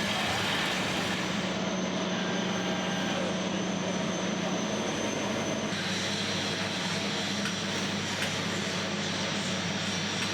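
Steady industrial machinery noise: a constant hum under a broad hiss, its tone shifting slightly about halfway through.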